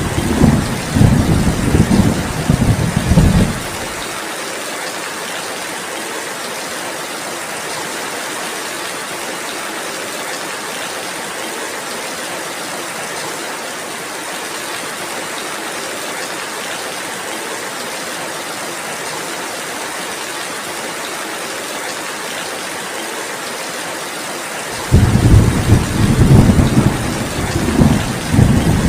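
Steady heavy rainfall hissing throughout, with loud rolling thunder rumbling over it for the first few seconds. The thunder cuts off suddenly, leaving only the rain, and comes back just as suddenly about four seconds before the end.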